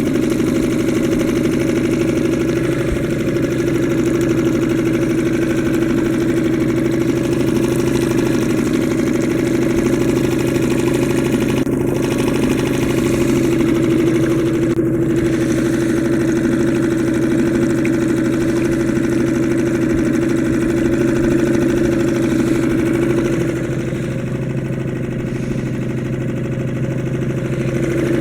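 Suzuki DF2.5 single-cylinder four-stroke outboard motor running steadily during its first hours of break-in, slightly quieter for a few seconds near the end.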